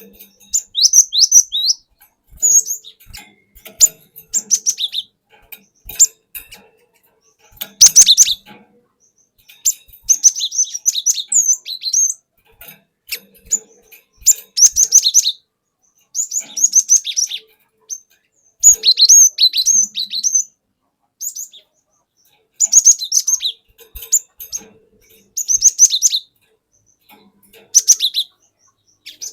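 Cinereous tit (glatik batu) calling: repeated bursts of sharp, high chirping and whistled notes, each burst a second or two long, with short pauses between.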